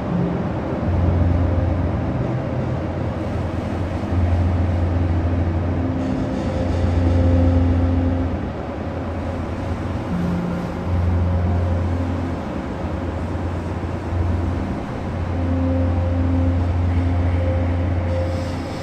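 Field recording of a city bus: a steady engine and road-noise rumble, with a deep low hum that comes and goes in stretches of one to two seconds and fainter steady tones above it.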